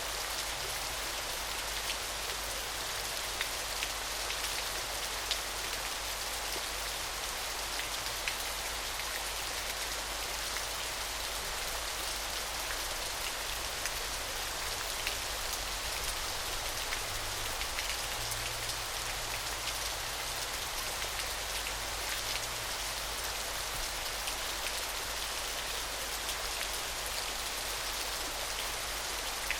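Small waterfall splashing steadily: an even, bright hiss of falling water with many small drips and splashes ticking on top.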